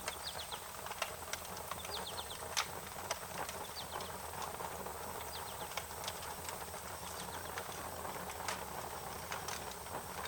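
Wood fire crackling, with irregular sharp pops over a steady hiss, while a bird repeats short chirping phrases of three or four quick high notes.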